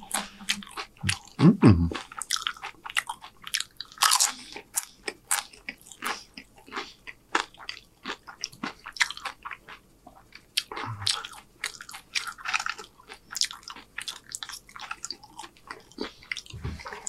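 A person chewing a mouthful of loaded tortilla-chip nachos close to the microphone, the chips crunching irregularly. A short hum about a second and a half in, and again about eleven seconds in.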